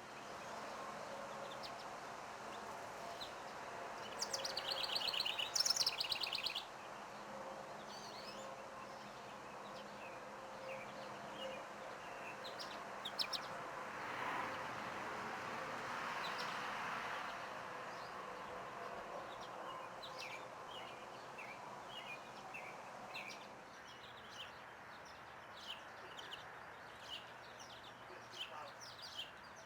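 Backyard songbirds calling: a loud, rapid trilled song about four seconds in, then scattered short chirps that grow frequent near the end, over a steady background hum.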